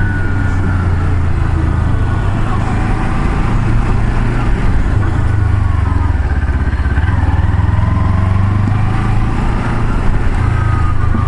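Vehicle engine and road noise heard from inside the cab while driving: a steady low drone, with faint higher whines gliding up and down.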